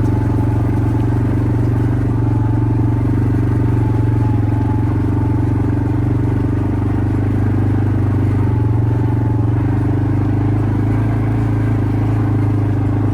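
Quad bike engine running loud and steady at an even pitch, with no revving.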